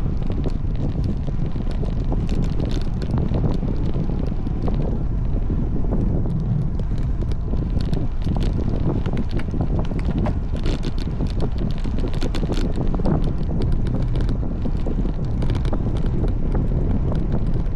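Wind buffeting the microphone of a road bike in motion: a steady low rumble with many small ticks and rattles.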